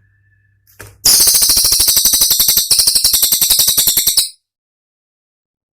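Cililin bird's rapid-fire 'tembakan' call: a fast, high-pitched rattle of sharp notes, more than ten a second. It starts about a second in and cuts off abruptly after about three seconds.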